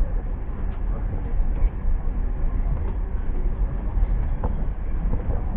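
The Overland passenger train running along the line: a steady low rumble with a few faint clicks from the wheels and carriage.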